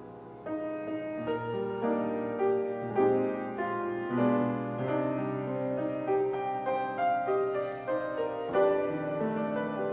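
Piano playing a slow instrumental piece, sustained chords under a melody line.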